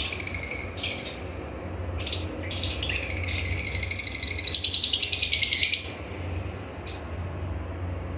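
Parrot giving harsh, high screeching calls: a short burst at the start, two brief ones, then a long call of rapid pulses lasting about three seconds, over a steady low hum.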